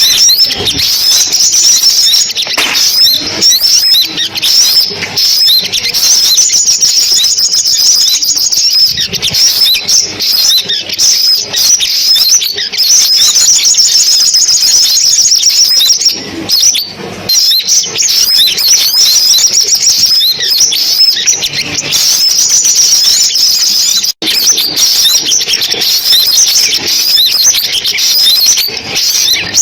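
Sunbirds singing: a loud, unbroken stream of quick, high-pitched chirps and trills, with a brief sudden break about 24 seconds in.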